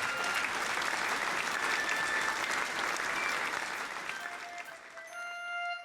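Applause from many hands clapping, fading away over the last couple of seconds as a keyboard and guitar tune begins near the end.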